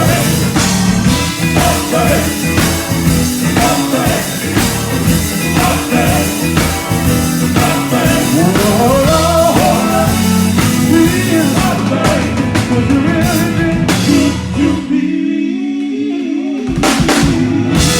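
Live gospel band playing with drum kit and bass under singing voices. About twelve seconds in the drums thin out and the bass drops out briefly, then the full band comes back in near the end.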